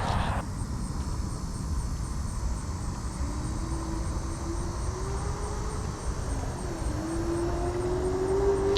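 Distant propeller airplane droning overhead, a hum that slowly rises in pitch and grows stronger over the last few seconds, over a steady low rumble of wind on the microphone.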